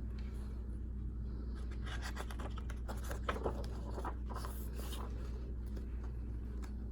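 Paper of a picture book's pages rustling and rubbing as they are handled and turned: a few light scratchy strokes over a steady low hum.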